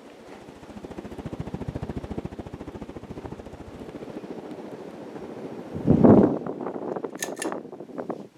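Casablanca Delta II ceiling fan running with a rapid, even pulsing. About six seconds in comes a loud rush, followed by a few sharp clicks, and then the sound cuts off.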